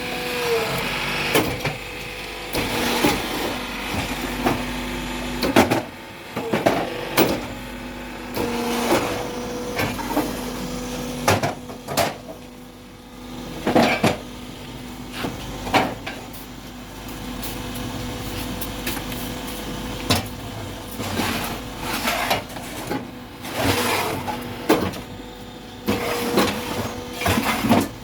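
Concrete block-making machine working: a motor hum that comes and goes, with repeated sharp metal clanks and knocks.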